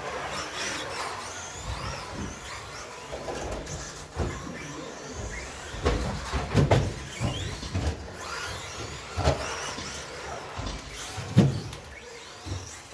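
Electric RC stadium trucks racing, their 13.5-turn brushless sensored motors whining up and down in pitch as they accelerate and brake. Several sharp knocks come through, a cluster around six to seven seconds in and the loudest about eleven seconds in.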